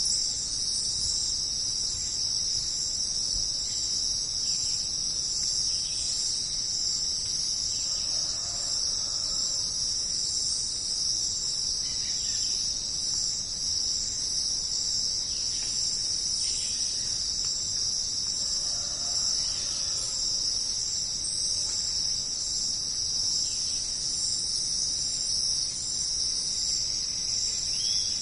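Jungle ambience dominated by a steady, dense, high-pitched insect chorus, with faint short animal calls every few seconds.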